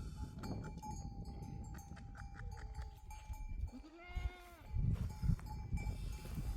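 Livestock bells clinking and ringing among the flock, with a single bleat from a sheep or goat about four seconds in that rises and falls in pitch.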